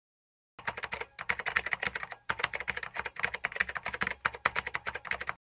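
Keyboard typing sound effect: a fast, continuous run of key clicks starting about half a second in, broken by two brief pauses.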